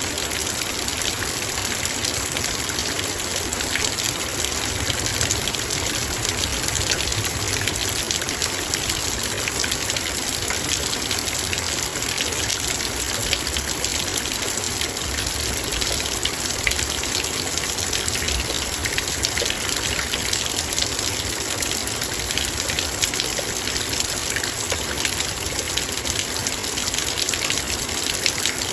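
Heavy rain falling steadily: a dense, even hiss of rain, with countless sharp drop hits on a metal bowl.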